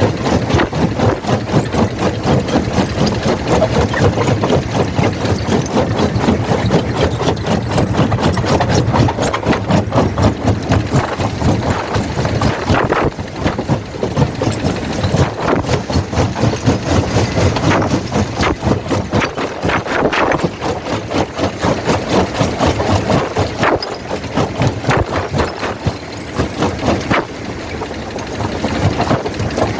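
Quarry primary jaw crusher running under load: a steady heavy machine drone with frequent irregular knocks and cracks as rock is broken between the jaws.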